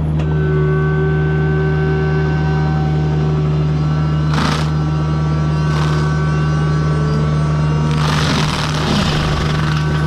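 Mini excavator running a hydraulic forestry mulching head: a steady engine drone with a constant high whine from the spinning drum. Short grinding bursts come about four and six seconds in, and a longer stretch of grinding near the end as the teeth bite into wood.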